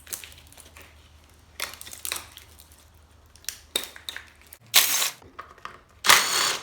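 Scattered clicks and rustles of hard objects being handled, then two loud rasping scrapes near the end, each about half a second long.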